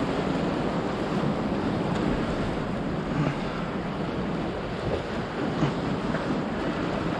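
Ocean surf breaking and washing up on the beach as a steady rush, with wind buffeting the microphone.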